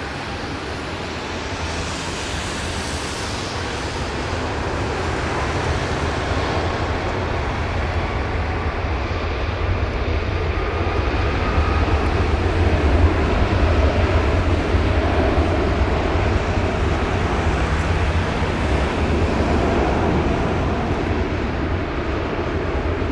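Jet roar from an Airbus A330-300's Rolls-Royce Trent 700 turbofans, a steady deep rumble that swells to its loudest about halfway through and then eases slightly.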